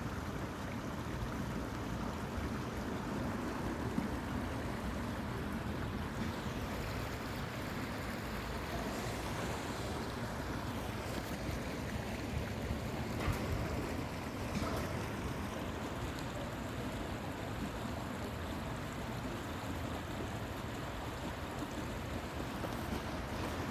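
Steady rushing outdoor background noise with a strong low rumble, and a few faint ticks along the way.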